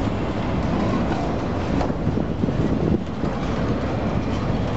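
Freight train boxcars rolling past close by: a steady rumble of steel wheels on rail with irregular clanking and clatter from the cars and trucks, and wind buffeting the microphone.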